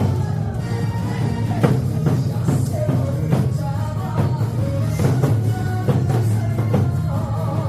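Nanta drumming: drums struck in time over a recorded trot song with singing.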